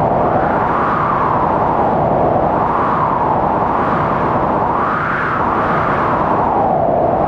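Strong blizzard wind howling: a steady loud rush with a whistling pitch that rises and falls every second or two.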